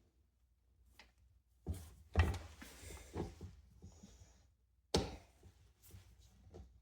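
Knocks, thunks and rattling of box fan parts being handled and fitted together, with sharp knocks about two seconds in and again about five seconds in.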